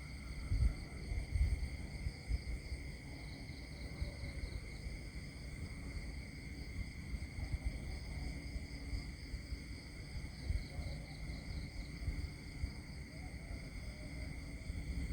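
Countryside nature ambience: a chorus of insects trilling steadily at several high pitches, with a pulsing call twice, over a low rumble and a few soft thumps in the first couple of seconds.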